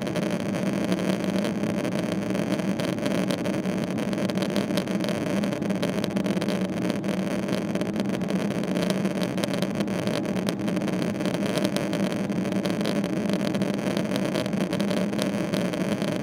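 Steady cabin noise of a Boeing 777-300ER, the hum of its GE90 jet engines and rushing air heard from inside the passenger cabin, holding level with no change.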